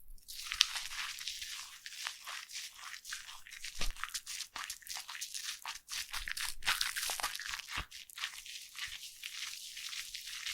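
Close-miked foam crackling and fizzing: a dense, continuous run of tiny bubble pops, with a few louder crackles about half a second, four and eight seconds in.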